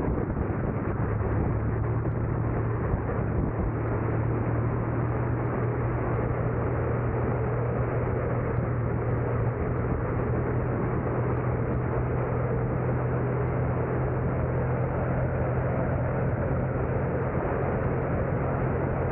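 A car driving: a steady rush of road and tyre noise over a constant low engine hum, with no sudden events.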